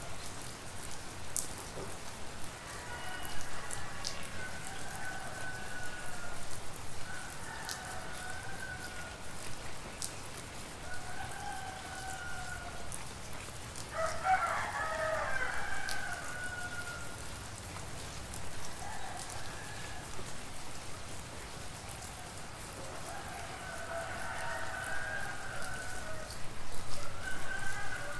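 Roosters crowing again and again, one call louder about halfway through, over steady rain with scattered drip clicks.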